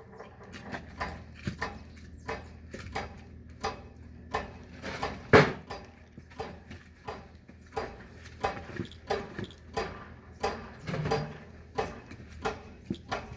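Firewood being chopped for a fireplace: a steady run of sharp wooden knocks, one or two a second, with one much harder strike a little past five seconds in.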